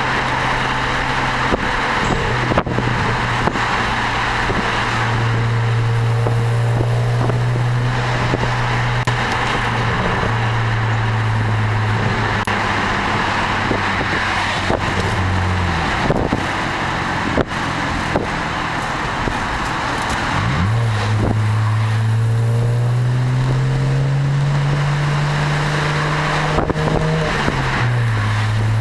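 BMW 335i's turbocharged inline-six through an Eisenmann Race exhaust, droning at a steady cruise. About two-thirds of the way in the drone climbs slowly in pitch under light acceleration, then drops back near the end. Wind and road noise run underneath.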